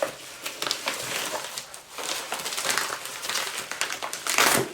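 Parcel packaging being handled and opened by hand: paper or plastic wrapping rustling and crinkling in many short crackles, with a louder burst of rustling near the end.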